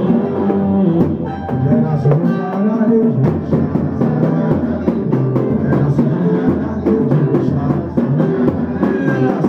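Live samba pagode music: the percussion, including a surdo bass drum, keeps a steady beat under the melody instruments.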